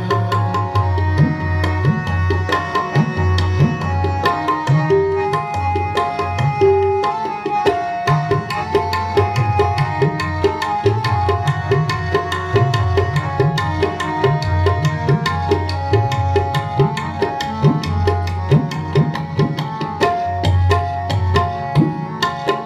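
Instrumental interlude in Sikh kirtan: tabla playing a brisk, steady rhythm under a melody of long held notes.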